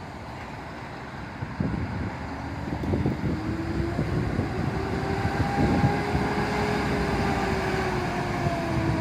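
Fire truck siren wailing, rising slowly in pitch, holding, then falling away, over a rumble of vehicle engine noise and wind on the microphone.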